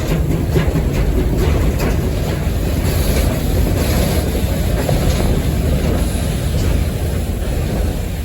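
Steam locomotive under way, heard from the cab: a steady loud rumble of the running gear and wheels on the rails, with faint irregular clicks.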